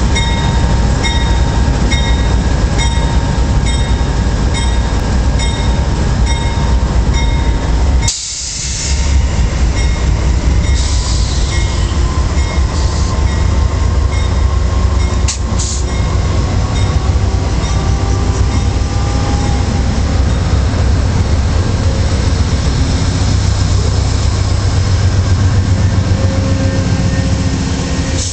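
Amtrak P42 diesel locomotives starting a passenger train: the locomotive bell rings just under twice a second over the running engines for about the first eight seconds, then the engines' low rumble grows louder as they throttle up. A short air hiss follows as the brakes release, and the train rolls off and gathers speed with faint wheel squeal.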